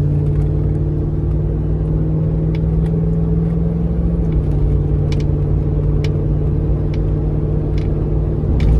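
Steady engine and road drone heard inside a moving pickup truck's cab, a low hum that shifts slightly in pitch about four seconds in, with a few faint, scattered clicks.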